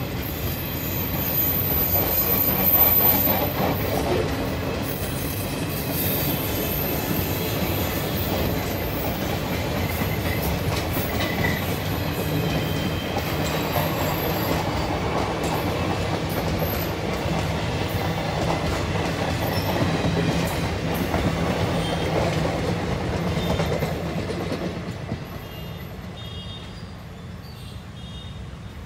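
Express train's passenger coaches rolling past at speed, steel wheels running on the rails. The noise fades near the end as the train draws away.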